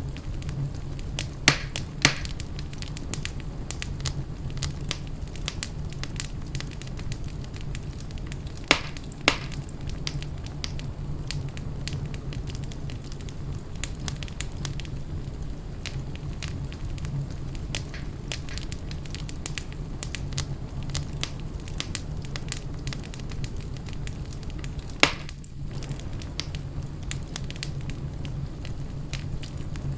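Wood fire burning in a fireplace, crackling steadily over a low, even rumble. Louder sharp pops come twice near the start, twice about nine seconds in, and once about 25 seconds in.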